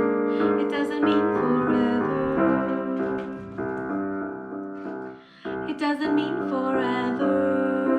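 Piano playing held chords, changing about once a second, with a brief dip in loudness about five seconds in.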